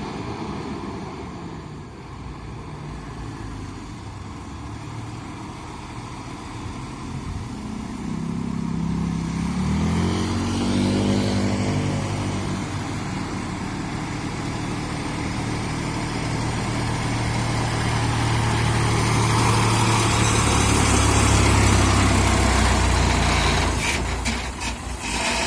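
Heavy truck's diesel engine running under load, its pitch rising and stepping about ten seconds in, then settling into a steady low drone that grows louder toward the end.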